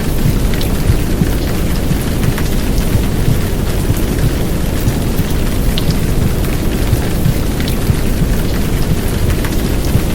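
Heavy downpour rain, a dense steady hiss with scattered drop ticks, mixed with white noise over a deep low rumble, as in a womb-sound track for settling babies.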